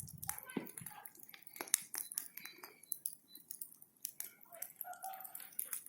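Bonfire of burning branches crackling: many irregular sharp pops and snaps.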